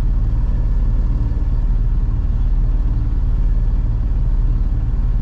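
Freightliner box truck's diesel engine idling steadily, heard from inside the cab: an even low rumble while the truck waits at a light.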